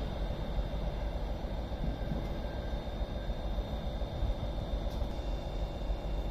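Passenger train moving through the station: a steady rumble with a constant high whine.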